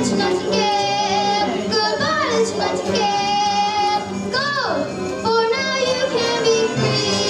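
A child's voice singing a song with musical accompaniment, the melody sliding between notes over steady held tones.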